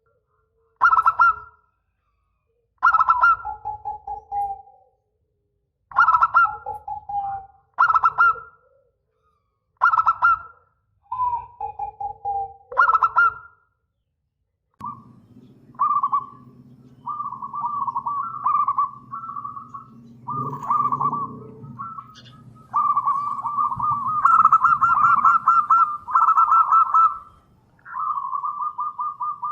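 Zebra dove (perkutut) cooing. About seven separate short calls come first, each opening loud and trailing into a lower note, with silence between them. From about halfway there is a long, near-continuous run of rapid trilled cooing over a steady low hum.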